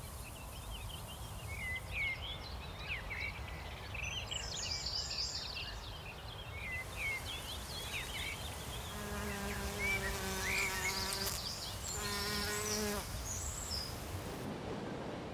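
A flying insect buzzing past twice in the second half, first for about two seconds and then for about a second, against birds chirping and singing over a low steady rumble.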